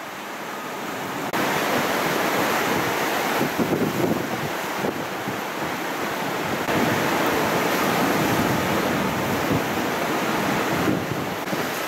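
Hurricane Maria's high winds blowing hard and buffeting the microphone, a steady rush of wind noise that gets louder about a second in.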